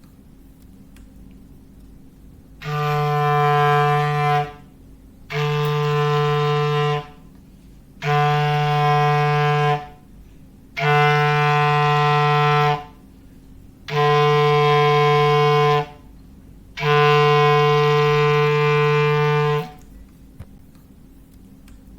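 Foghorn sound effect: six long blasts on one steady low pitch, each about two to three seconds long with short gaps between them. The first blast comes a few seconds in.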